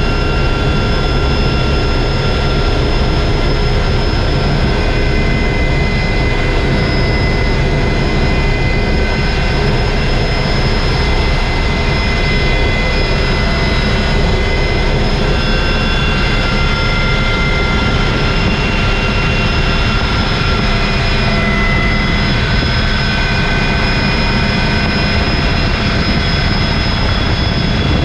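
Helicopter running in flight: a loud, steady rotor and engine noise with several steady high whines over it.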